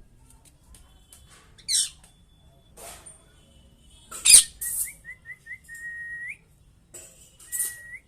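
Pet parrot screeching and whistling: a few short, sharp screeches, the loudest about four seconds in, with a run of quick whistled notes followed by a longer steady whistle that rises at its end, and another short rising whistle near the end.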